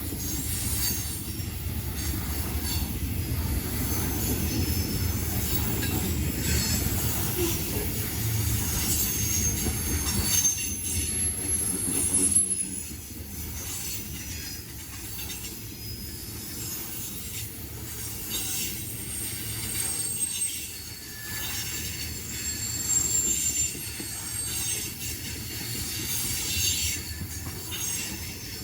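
Freight train rolling past, with a steady low rumble of cars and thin high wheel squeal coming and going over it. The rumble is louder for the first dozen seconds, then eases slightly.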